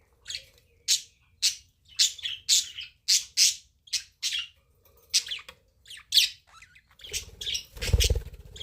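Budgerigars chirping and squawking: a string of short, sharp, high calls, about one to two a second. A low rumble joins in near the end.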